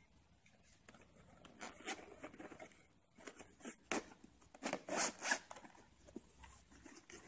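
Zipper on a padded black action-camera carry case being pulled open around its edge in a series of short pulls, loudest about four to five and a half seconds in.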